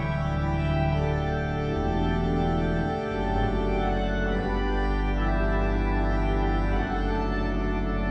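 Organ playing the postlude: held full chords over deep bass notes that change a few times.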